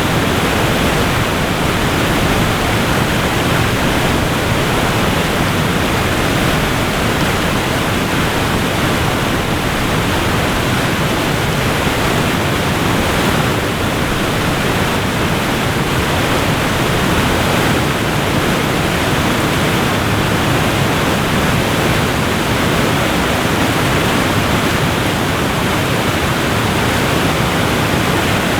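Waterfall rushing: a steady, unbroken wash of falling water, fuller in the low and middle range than in the highs.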